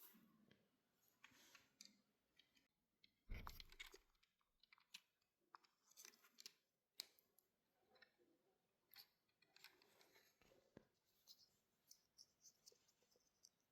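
Faint, scattered clicks and light rustling of small objects being handled, with one louder knock about three seconds in.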